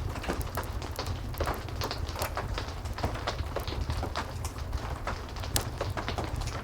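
Heavy rain with a fireplace crackling: dense, irregular sharp crackles and pops over a steady hiss of rain and a low rumble.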